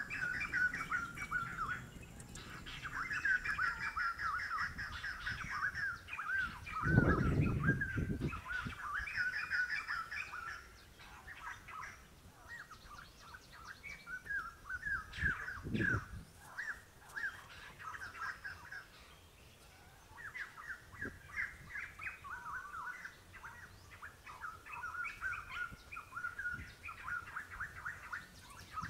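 Small birds chirping in quick strings of notes, almost without a break. A louder low rumbling noise lasting about a second and a half comes about a quarter of the way in, and a shorter one about halfway.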